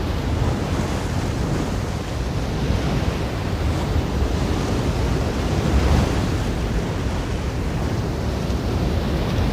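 Sea waves washing onto a beach: a steady rushing surf that swells a little and eases off.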